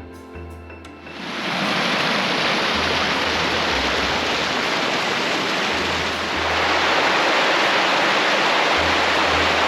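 Steady rush of river water tumbling over rocks, swelling in about a second in and staying loud, with background music and its low bass line underneath.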